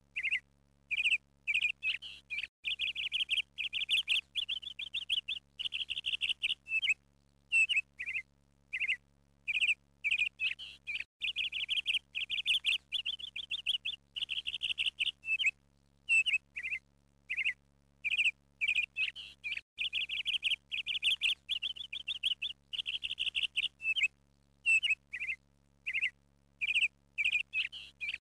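Bird chirping and trilling: scattered short high chirps between longer bouts of rapid trilled chirps, the bouts coming back about every eight seconds.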